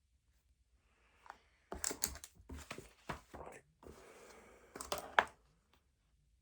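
Handling noises of study materials at a desk: a run of rustles, scrapes and clicks about two to five seconds in, with a brief steady rub in the middle and the sharpest click near the end.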